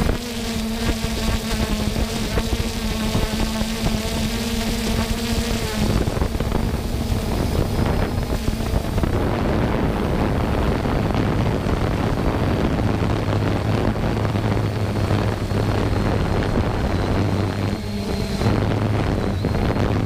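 3DR Solo quadcopter's electric motors and propellers buzzing, heard from the GoPro mounted on the drone, mixed with wind noise on the microphone. A steady whine for about the first six seconds gives way to a rougher rush with a low hum.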